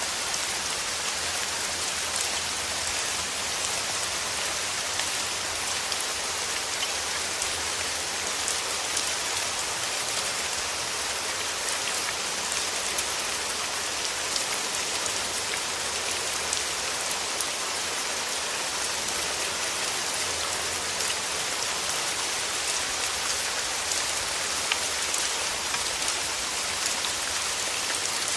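Steady rain falling, a dense patter of many small drop ticks that holds even throughout.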